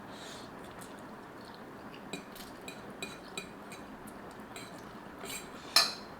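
Eating utensils clinking against a bowl of noodles: a string of light ringing clinks from about two seconds in, and one louder clatter near the end.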